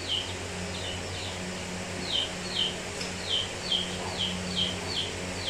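A small bird chirping: a run of short, high notes that each fall in pitch, about two a second, with a brief pause about a second in.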